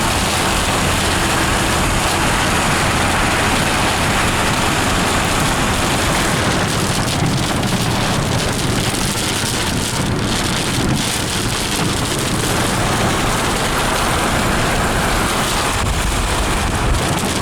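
Heavy rain drumming steadily on a moving car, mixed with tyre and road noise, heard from inside the cabin.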